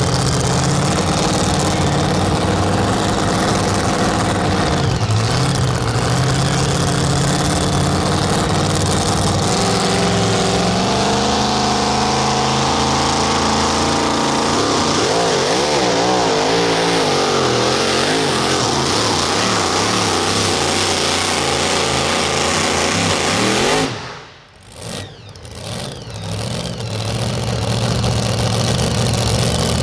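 Super modified two-wheel-drive pulling truck engine running loud at high revs, its pitch wavering and shifting in the second half. About three quarters of the way through the sound drops away sharply, then a steady engine sound returns.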